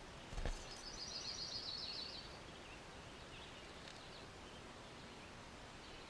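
A bird's rapid, high trill lasting just over a second, followed by a few faint chirps over a faint steady background. A short low thump comes just before the trill.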